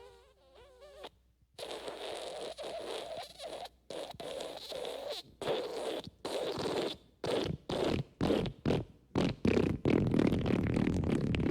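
Fart sound effects: a short squeaky fart with a wavering pitch, then after a brief gap a long raspy fart that breaks up into a run of sputtering bursts, growing louder toward the end.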